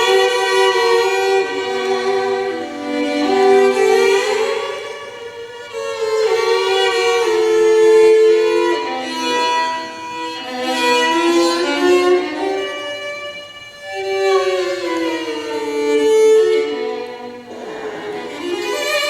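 Bowed violin playing a slow, sustained melody with gliding notes, often two or more pitches sounding together, swelling and fading in phrases.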